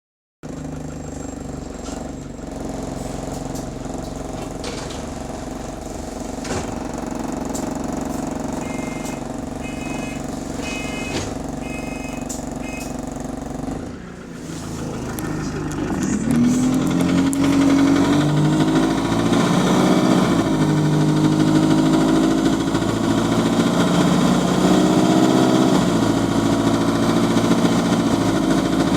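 A bus's diesel engine idles, and a door buzzer beeps in short pairs a few times from about nine seconds in. From about sixteen seconds the engine pulls away under load, its pitch rising and then dropping at each gear change, three times.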